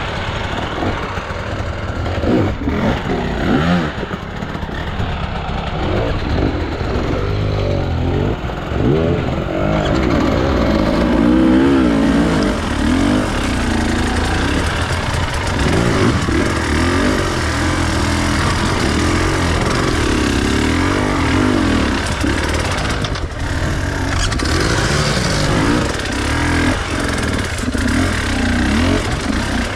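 Enduro dirt bike engine running under load, its pitch rising and falling continuously with the throttle as it is ridden off-road.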